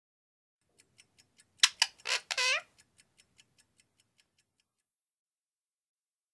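Sound effects for a children's story: a run of clock-like ticks, about five a second, fading away. In the middle come three short calls that fall in pitch, the last one dropping lowest.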